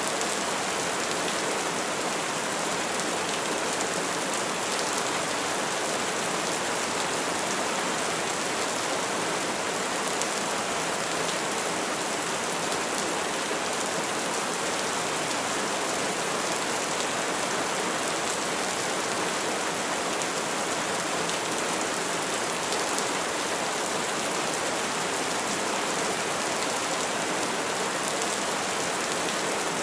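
Steady, heavy rain falling, an even hiss with no thunder in it.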